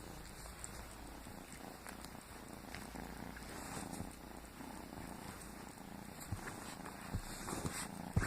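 A domestic cat purring close by, a steady low rumble, with a few soft knocks near the end.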